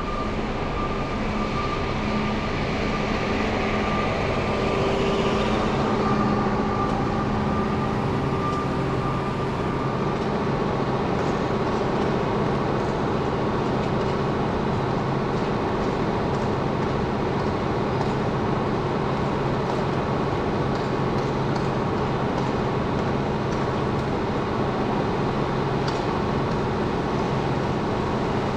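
Steady city traffic and vehicle engine noise from a car driving through the streets, a continuous hiss with a low engine hum under it. The hiss swells over the first several seconds, then settles.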